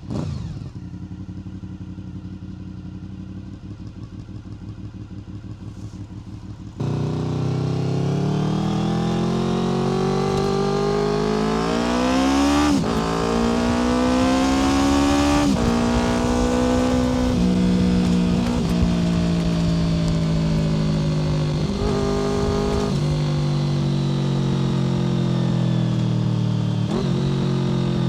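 Honda VFR800 FI's V4 engine through a Black Widow aftermarket exhaust, idling steadily at first. About seven seconds in it turns suddenly louder and the bike pulls away, the engine note rising with throttle and dropping at several gear changes, then holding steadier between shifts.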